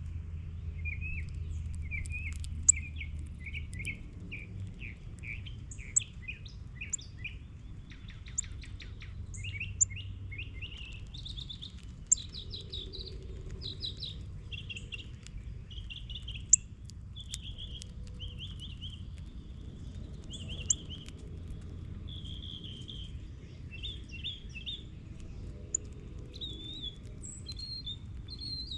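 Small birds chirping and twittering in many quick short notes, overlapping, with a fast rattling trill about eight seconds in. A few sharp ticks stand out over them, and a low steady rumble runs underneath.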